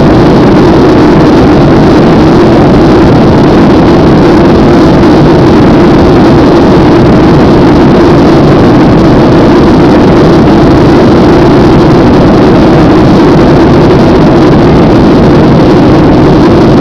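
Airliner cabin noise after take-off: loud, steady jet engine and airflow noise with a low steady drone, unchanging throughout.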